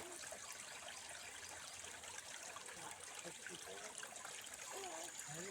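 River water flowing steadily, a faint even rush. Faint voices come in over it in the second half.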